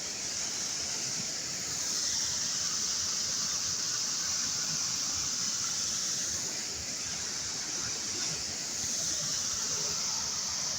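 Floodwater rushing steadily in a swollen stream, a constant roar with no breaks.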